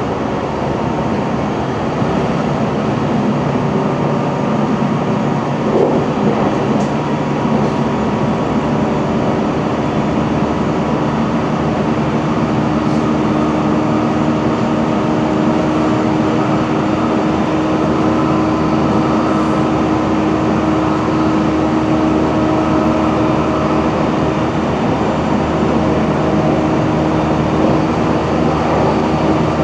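JR Central 313 series electric train running along the line, heard aboard its leading motor car KuMoHa 313-3: steady rolling noise of wheels on rail with the hum of its traction motors.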